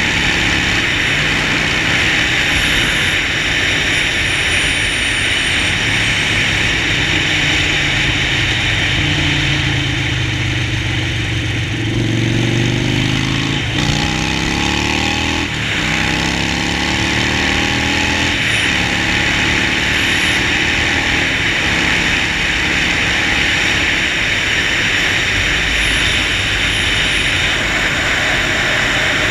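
Harley-Davidson Sportster Forty-Eight's air-cooled V-twin running under way. About halfway through, the revs climb and break off twice in quick succession, then climb again.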